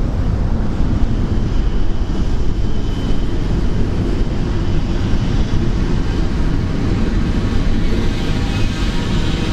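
Steady, loud rumble of a heavy rainstorm and traffic under a highway overpass, with faint steady tones that grow stronger near the end.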